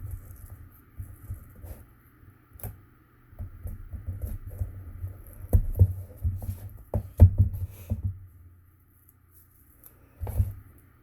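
Handling noises from paper crafting: cardstock and a cardboard box being pressed, folded and shifted on a table, with several knocks, the sharpest near the middle and one about ten seconds in.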